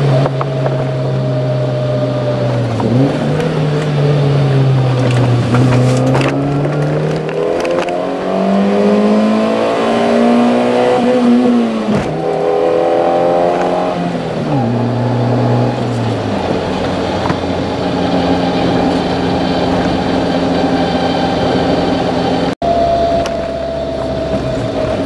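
Subaru Pleo's 660 cc four-cylinder engine running through a homemade all-stainless exhaust while driving. The pitch rises as it pulls through the gears and drops sharply at each shift, about three seconds, twelve seconds and fourteen seconds in, then holds at a steady cruise. There is a brief cut in the sound late on.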